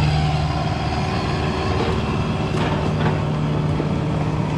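Mini excavator's diesel engine running steadily, with a few faint clicks and knocks.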